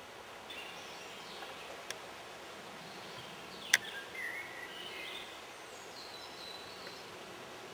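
Faint birds chirping over a steady outdoor background hiss. There are two sharp clicks, a small one about two seconds in and a much louder one near four seconds.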